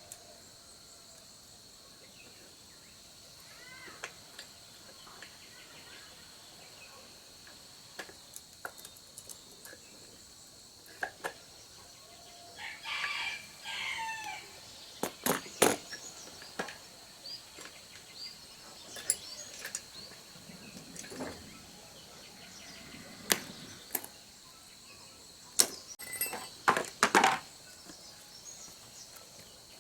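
Scattered sharp clicks and light metal knocks, typical of hand-tool work on a chainsaw being taken apart. A steady high insect drone runs underneath, and a rooster crows in the background about 13 seconds in.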